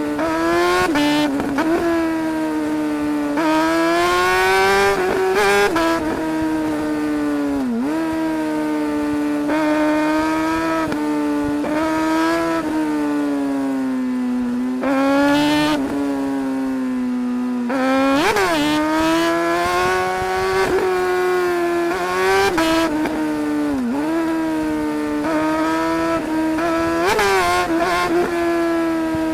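Suzuki GSR 600's inline-four engine pulling hard through the gears: the pitch climbs with each gear and drops sharply at every shift, again and again. A few times it falls away as the throttle closes, then climbs again.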